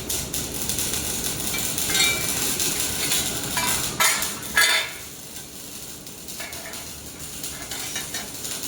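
Metal clinking and clattering as metal parts and tools are handled, with two sharp clanks about four seconds in; quieter after that.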